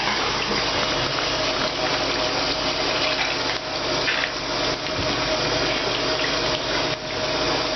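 Water running steadily from a tap, an even rush with a faint steady tone beneath it.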